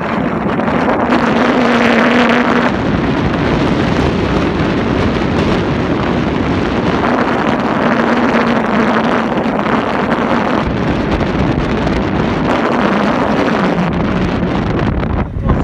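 Loud rushing wind noise on the microphone, with a low hum that comes and goes and wavers in pitch.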